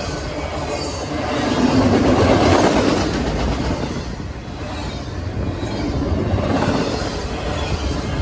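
Norfolk Southern freight train rolling past, a continuous rumble of railcar wheels on the rails that swells and eases as cars go by.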